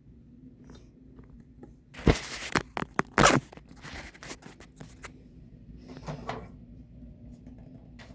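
Faint steady hum, with loud crunching and scraping handling noises for about a second and a half starting two seconds in, then a few lighter knocks and scrapes.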